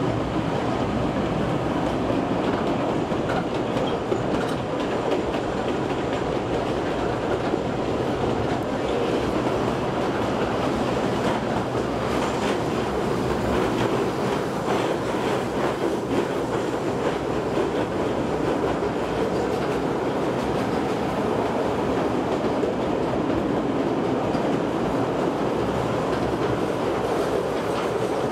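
Kurobe Gorge Railway narrow-gauge trolley train running along the line, heard from aboard: a steady rumble of wheels on the rails with a rattling clack of the track.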